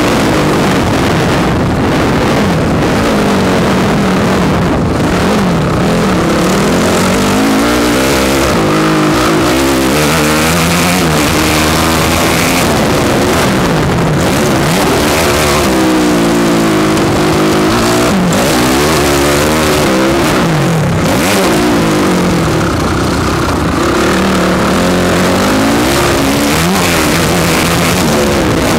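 Motocross bike engine revving hard and easing off over and over, its pitch climbing and dropping every second or two as the rider accelerates and shifts around the track, heard from a helmet-mounted camera.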